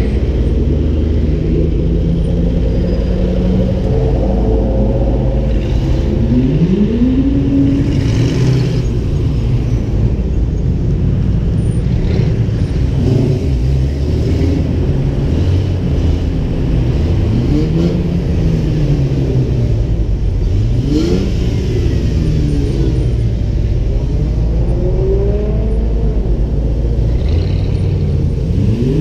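Ford Mustang engine pulling through the gears: its pitch rises in repeated sweeps as it accelerates, drops back as it eases off, then climbs again near the end. Steady wind and road rumble run underneath.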